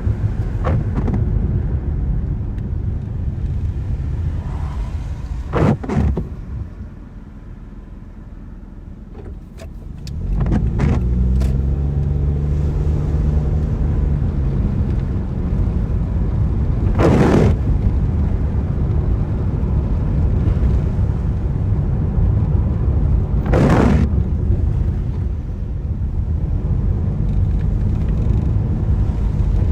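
A car driving on wet roads: steady tyre and road rumble that drops off about seven seconds in as the car slows, then the engine pulls away again about ten seconds in, rising in pitch. Three brief swooshes come through, near six, seventeen and twenty-four seconds.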